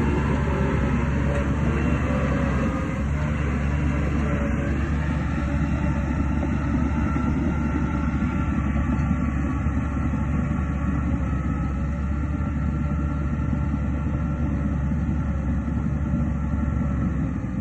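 Heavy diesel earthmoving machinery running steadily, a dense low rumble with a faint high whine that settles into a steady pitch after about five seconds.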